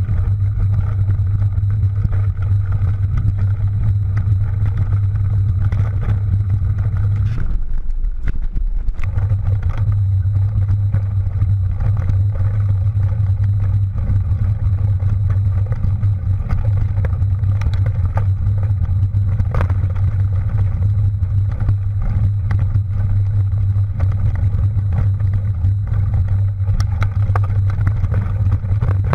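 Steady, loud low rumble of wind and riding noise on a camera carried on a mountain bike, with scattered rattles and clicks from rough ground; the rumble drops out briefly about seven seconds in.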